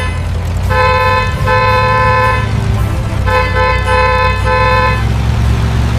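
A vehicle horn honking about five times, one honk held longer than the rest, over a steady low engine rumble.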